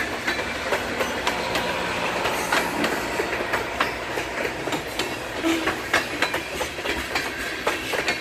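Freight train of refrigerated boxcars rolling past close by, picking up speed: steady rumble of wheels on rail with irregular clicks and clacks over the rail joints.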